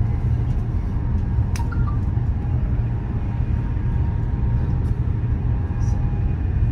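Steady low rumble of a high-speed train running at speed, heard inside the passenger carriage, with one sharp click about a second and a half in.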